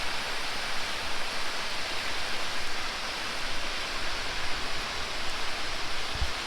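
Steady rush of falling water, with a soft low bump about six seconds in.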